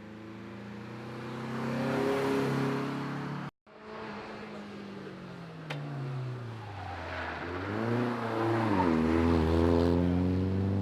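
Peugeot car engines under hard acceleration on a hillclimb run, in two separate passes. In the first, the engine note rises as the car draws closer and louder. In the second, the note drops as the car changes gear or brakes, then climbs again and holds as the car comes nearer.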